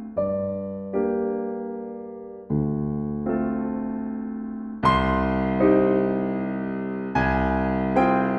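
Soft, slow solo piano music: chords struck every second or two and left to ring out, growing fuller and louder about five seconds in.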